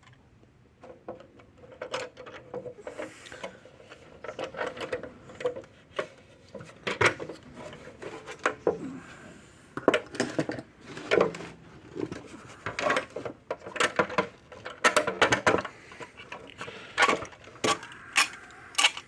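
Irregular clicks, knocks and scrapes of bolts and metal parts being handled and worked into place by hand while reassembling an electric fence charger.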